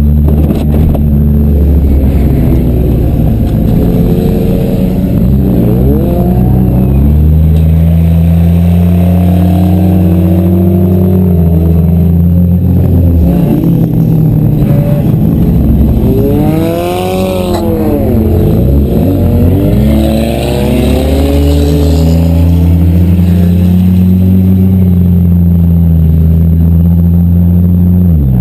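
Demolition derby cars' engines running loud, with a steady low drone. Several engines rev up and down, and the biggest rev rises and falls about two-thirds of the way through.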